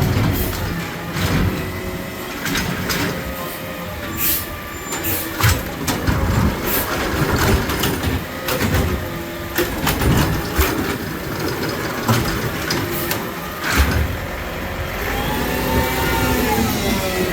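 Garbage truck at work: its engine running, with repeated metallic clanks and bangs, and a wavering whine near the end.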